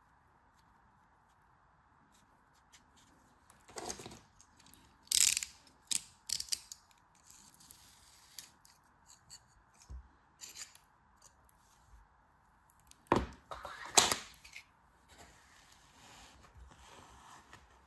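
Packaging being unwrapped and opened by hand: an irregular run of sharp crinkles and clicks starting about four seconds in, loudest around five and fourteen seconds in.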